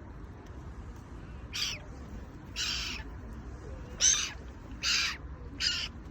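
Gulls calling: five short calls, about a second apart, over a steady low background rumble.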